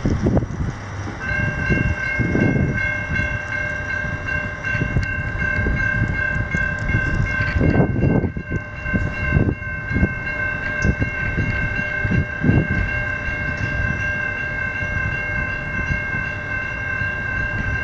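Level crossing warning bells, a General Signals E-Bell and a Safetran Type 3 electronic bell, start ringing about a second in as the crossing activates. They sound as a steady high ringing over a low, uneven rumble.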